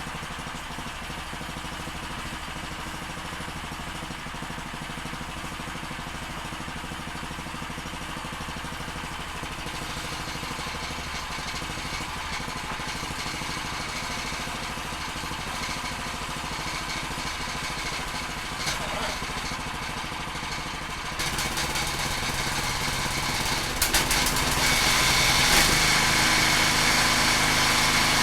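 Predator small gas engine running on its first test run after installation, getting louder in two steps near the end, with a few sharp clicks just before the second step.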